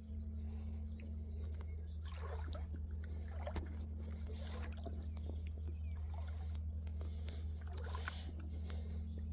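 Wading through a shallow creek: water sloshing and splashing in irregular bursts with a few small clicks, over a steady low rumble.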